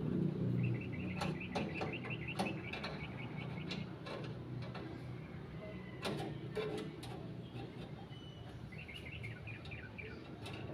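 A small bird giving a fast, even chirping trill twice, with scattered sharp knocks and clanks in between.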